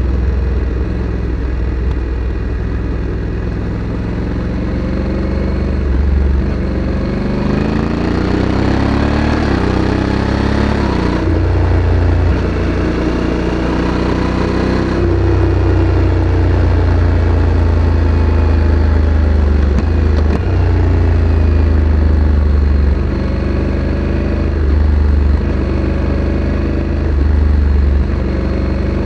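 Honda Africa Twin CRF1100 DCT's parallel-twin engine running through the stock exhaust while riding. It climbs in pitch under acceleration, with gear changes about 11 and 15 seconds in, then settles to steadier cruising with small throttle changes.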